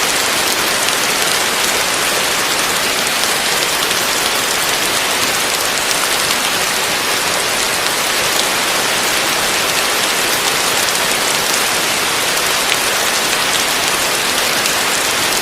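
Heavy rain falling steadily: a dense, even hiss with the fine patter of individual drops.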